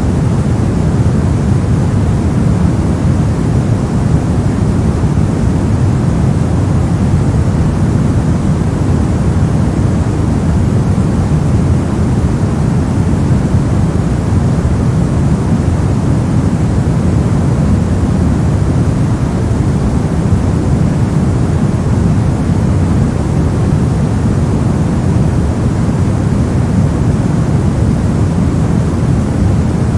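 A steady sleep noise track: an unbroken, even hiss-and-rumble with no pattern or change, weighted toward the deep end.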